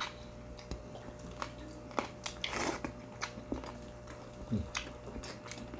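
Close-miked chewing and biting of food, with scattered crisp crackles, clicks and mouth smacks, over a faint steady hum.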